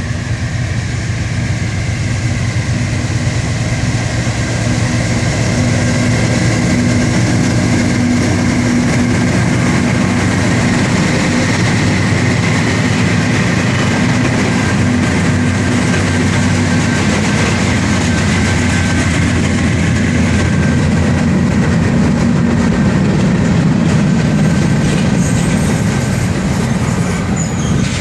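Freight train passing close by: a steady rumble of diesel locomotive engines and the clatter of wheels on the rails, loud throughout.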